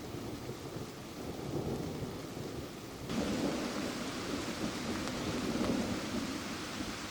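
Summer thunderstorm: steady rain falling with a low rumble of thunder that swells through the middle. About three seconds in, the rain's hiss turns suddenly brighter.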